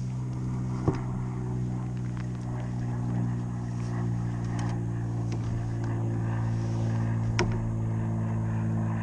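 An engine running steadily at an even low drone, with a sharp knock about a second in and another near the end.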